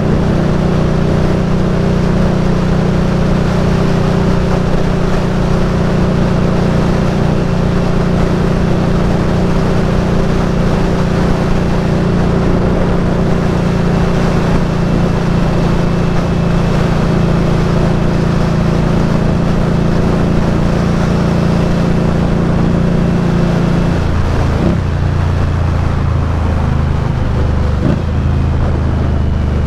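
Indian Scout Bobber's V-twin engine running at a steady cruise with wind rushing past. Near the end the engine note drops, with two brief breaks as it slows and changes gear.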